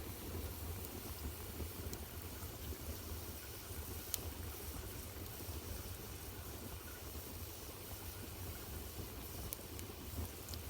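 Wood fire burning in a fireplace: a steady low rumble of the flames with a few sharp crackles, the loudest about four seconds in.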